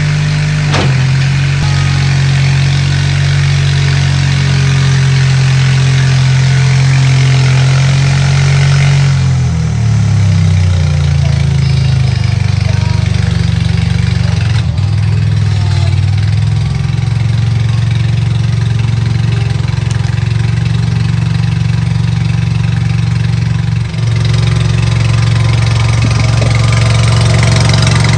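Bobcat 732 skid steer's gasoline engine running steadily; around ten seconds in its speed shifts and wavers, then it settles and runs steady again.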